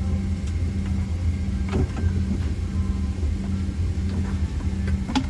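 Steady low hum in the cabin of a Boeing 767-300ER on the ground, with a few faint clicks.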